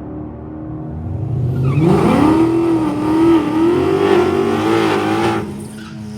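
Car engine revving hard under load at a drag strip. About two seconds in its pitch climbs steeply, it stays loud with a wavering pitch for a few seconds, then backs off to a lower, steadier note near the end.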